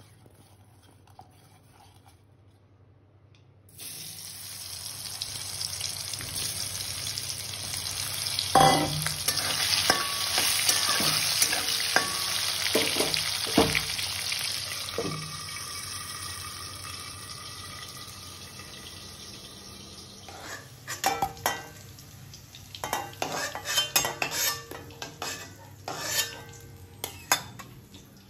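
Potato wedges frying in hot oil in a metal wok: the sizzle starts suddenly about four seconds in, swells, then slowly dies down. A steel spatula scrapes and knocks against the pan as the pieces are turned, more often in the last several seconds.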